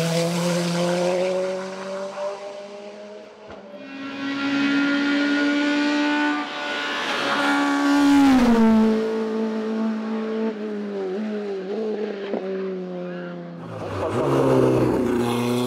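Racing car engines at full throttle on a hillclimb course: one engine fades away, then a second car's engine rises to its loudest about eight seconds in and drops sharply in pitch as it goes by, and another engine comes in loudly near the end.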